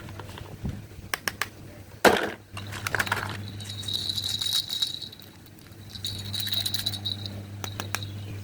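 Old plastic toys being handled, with a few clicks and a sharp clatter, then a small toy gear motor whirring in two short spells with a high whine and fast ticking of its gears.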